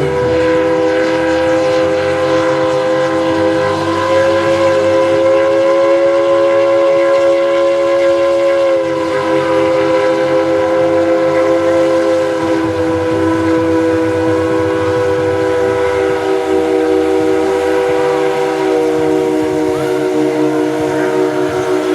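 Steam locomotive's chime whistle blown in one long, continuous blast, several notes sounding together, its pitch wavering slightly as it is held.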